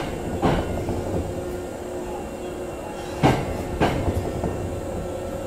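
Interior running noise of a Nose Electric Railway electric train cruising, a steady rumble with a faint hum. Its wheels clack over rail joints in two quick pairs, one at the start and one about three seconds in.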